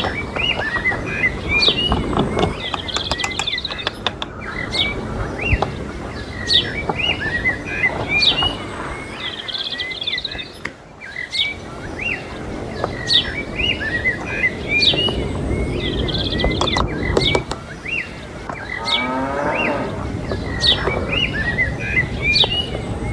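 A cow mooing, with one drawn-out call near the end, over birds chirping again and again.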